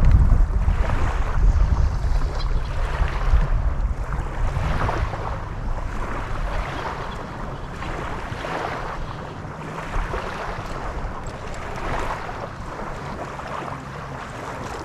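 Wind buffeting the microphone over the wash of lake waves. The low wind rumble is heaviest in the first few seconds, then eases, leaving repeated surges of water.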